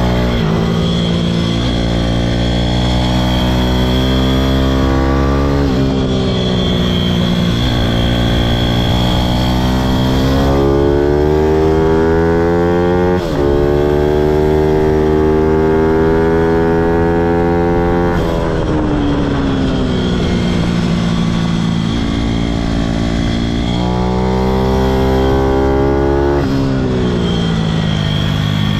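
Pitom pit bike's small single-cylinder engine pulling hard on track, its pitch climbing again and again and dropping back at each gear change or throttle lift.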